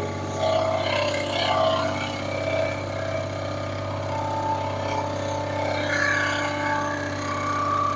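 Engine running steadily at a constant speed, with a wavering higher whine over it that rises and falls.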